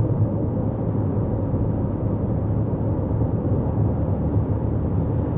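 Steady road and tyre noise with engine hum from a 2024 Toyota Corolla Cross being driven on the highway, heard from inside the car as an even, low rumble.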